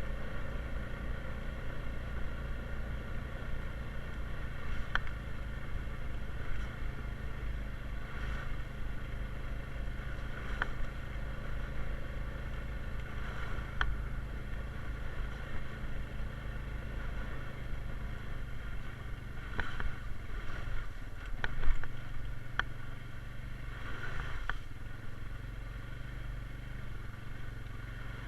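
Honda Rubicon 520 ATV's single-cylinder engine running steadily under way on a trail. Scattered knocks and clicks sound over it, the loudest about three quarters of the way through.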